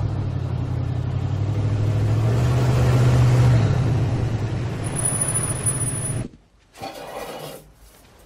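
A vehicle's engine running with a low, steady rumble, swelling louder in the middle as the SUV pulls up, with a thin high whine for about a second near the end. The sound then cuts off abruptly to a much quieter room with a brief rustle.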